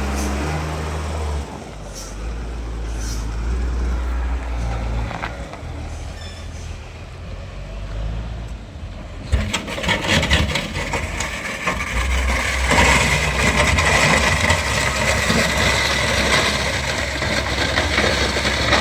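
Heavy machinery engine running with a steady low rumble. About nine seconds in it turns louder and harsher, with a steady high whine.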